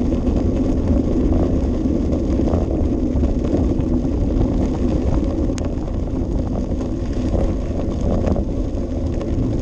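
Wind rushing over the microphone of a bicycle-mounted action camera while riding, a steady low rumble, with the bicycle's scattered rattles and clicks on top.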